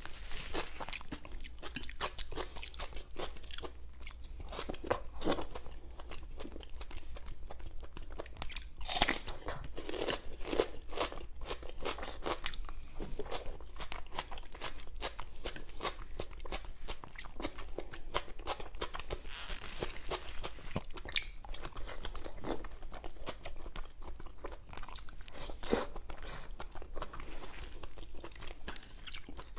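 A person chewing and biting food close to a clip-on microphone: a dense, irregular run of wet mouth clicks and crunches, with a louder stretch about nine seconds in.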